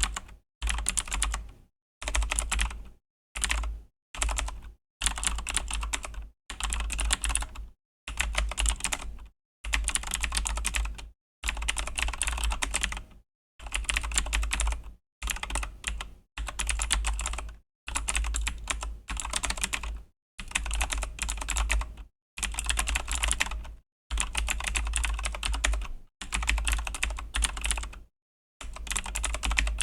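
Fast typing on a Razer BlackWidow V3 mechanical keyboard with clicky Razer Green switches. Each key press gives a sharp click. The typing comes in quick runs of about a second each, with short silent breaks between them.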